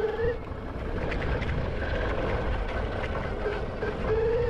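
Electric dirt bike riding on a dirt trail: the motor's whine rises near the start, holds and rises again near the end, over rumbling tyre and wind noise on the microphone.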